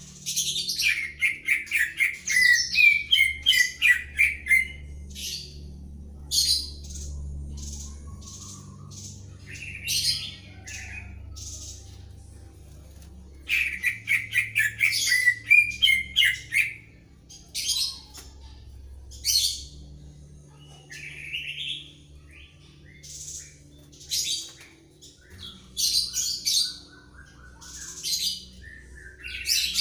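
Greater green leafbird and white-rumped shama singing back and forth in bursts of rapid, varied whistles and chattering phrases, with short pauses between, over a faint low hum.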